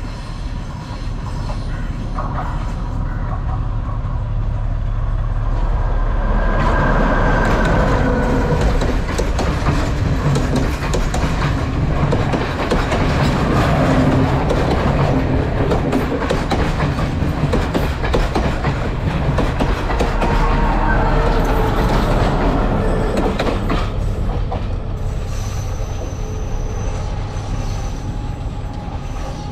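Passenger train passing close by on the rails. A low rumble builds as it approaches, the wheels clatter loudly as the coaches go past, and the sound fades as it moves away.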